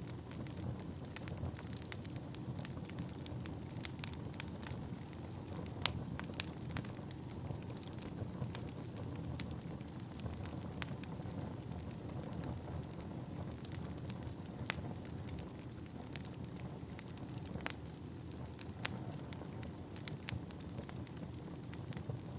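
Wood fire burning in a fireplace: a steady low rumble of flames with frequent sharp, irregular crackles and pops from the burning logs, one louder pop about six seconds in.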